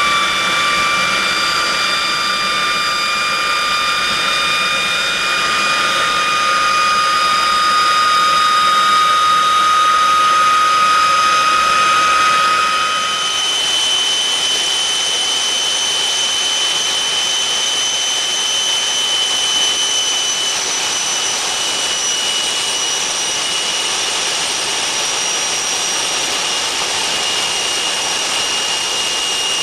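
Rolls-Royce Nene II centrifugal-flow turbojet running, a steady rush with a high whine. About 13 seconds in the whine changes: the lower tones drop away and a higher whine carries on.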